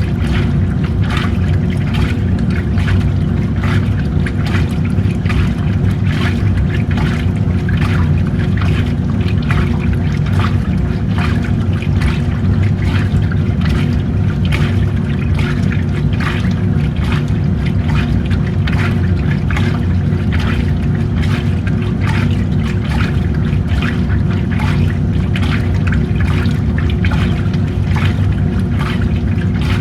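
Old-style washing machine running, its motor humming steadily under irregular splashing and sloshing of water.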